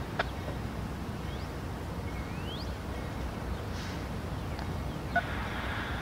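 Outdoor ambience: a few short bird chirps, one a quick rising whistle about two seconds in, over a low steady rumble, with a sharp click near the start and another near the end.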